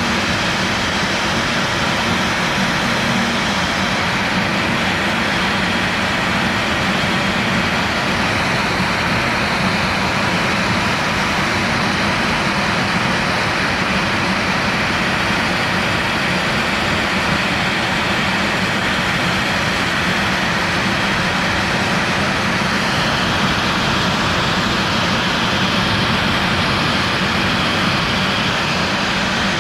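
CNC router spindle spinning a 45° V-bit at about 7,000 RPM as it carves PVC at 400 inches per minute, over the steady noise of the dust-collection vacuum. The sound holds steady, with no stops or changes.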